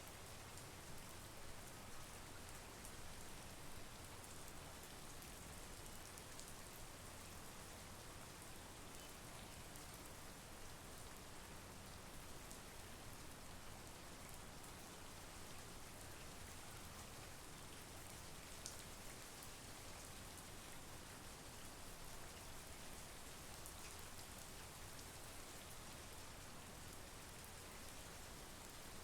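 Steady monsoon rain falling, an even hiss of rain with fine scattered drop ticks and no thunder.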